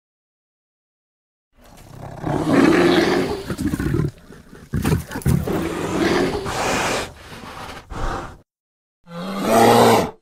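Bear roaring and growling, a film sound effect. A long, rough roar runs for several seconds with a few sharp breaks. After a pause of under a second, one shorter roar with a clearer pitch cuts off abruptly.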